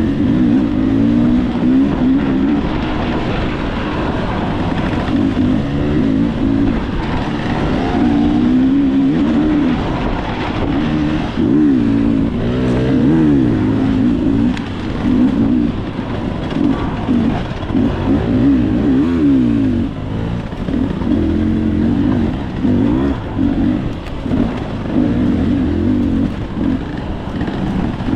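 Dirt bike engine being ridden hard, its pitch rising and falling over and over as the rider opens and closes the throttle and shifts.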